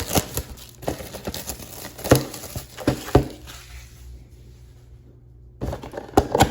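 A cardboard box of trading card packs being opened and handled: rustling with several sharp taps and knocks, then quieter for over a second before the handling picks up again.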